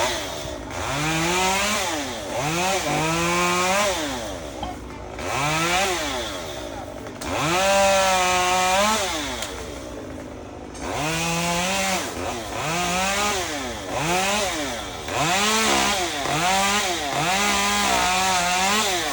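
Chainsaw revved up and down over and over, about a dozen times, some revs short and some held steady for a second or two.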